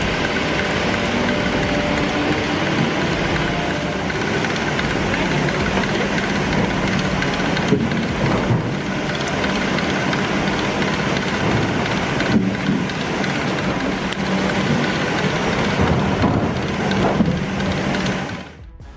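Heavy machinery running: a steady engine drone with a low hum and hiss, dipping briefly near the end.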